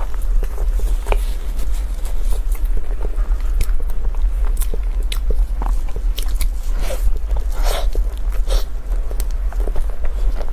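Someone biting and chewing food close to the microphone, with scattered sharp crunches and clicks over a steady low hum.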